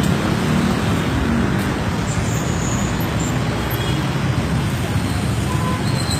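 Steady road traffic noise: vehicles running past.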